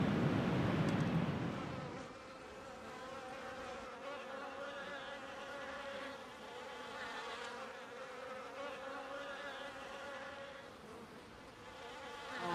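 A faint, steady buzzing drone at a near-fixed pitch, like insects in flight. It follows a couple of seconds of louder rushing noise that fades out.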